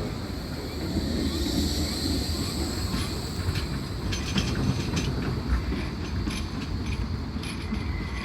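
A tram running along the track with a steady rumble. A high wheel squeal rises over it for the first few seconds, followed by a string of short clicks and knocks from the wheels on the rails.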